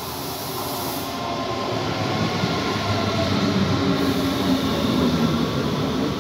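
Red S-Bahn electric multiple unit approaching and running past along the platform, growing louder as it comes, with whining tones over the rumble of its wheels on the rails.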